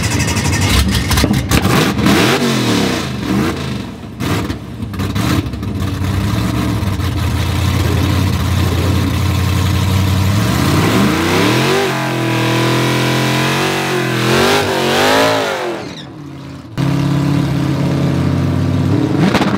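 Supercharged 412 ci LS V8 of a drag car revving: sharp crackles at first, then blips up and down, a long stretch held at high revs, and more climbing and falling revs. The revs drop away briefly about three seconds before the end, then it runs loud again.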